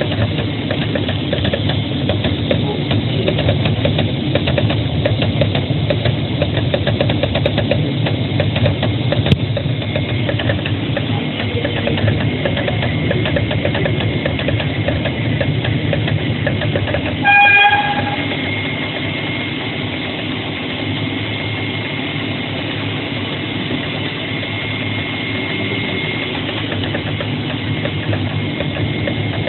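AOKE CNC flatbed cutter plotter running as it cuts a paper shoe pattern: a steady mechanical drone with a fast, fine chatter. A short beep sounds about two-thirds of the way through; after it the machine runs a little quieter, with a thin high whine held for several seconds.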